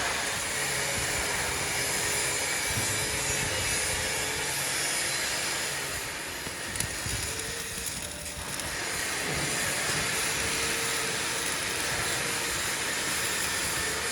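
Steady machinery noise in a metalworking factory, with a faint hum that fades slightly in the middle and then returns.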